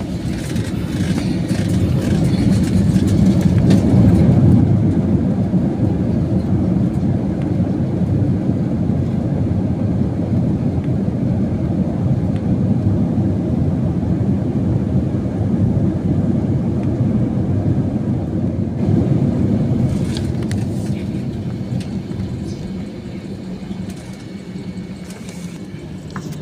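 Airbus A321-200 landing rollout heard from inside the cabin: a heavy rumble of the engines and wheels on the runway just after touchdown. It swells to its loudest about four seconds in, typical of reverse thrust and braking, then eases steadily as the jet slows.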